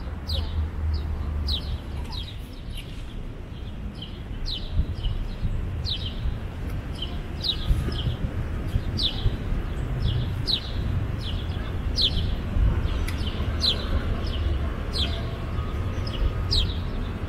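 A bird chirping over and over: short, high chirps, each falling quickly in pitch, about two a second, over a steady low rumble.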